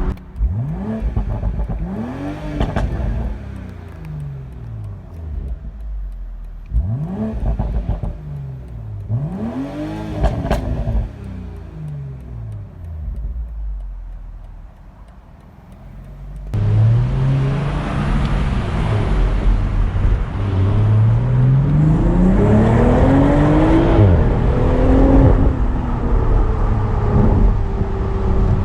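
BMW Z4 M40i's turbocharged 3.0-litre inline-six accelerating through the gears. The engine note rises in pitch and drops back at each shift several times, then eases off. About halfway through it comes back louder in one long, hard pull, climbing steadily in pitch before levelling off.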